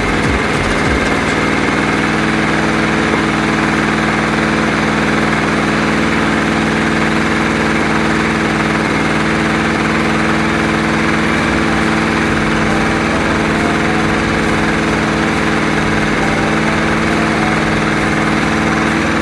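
Kawasaki KZ1000's air-cooled inline-four engine idling steadily, its pitch holding level throughout.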